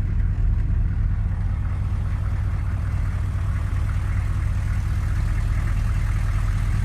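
The 6.5-liter Detroit turbo diesel V8 of a 1993 Chevy 1500 pickup running steadily at low speed, a deep even drone.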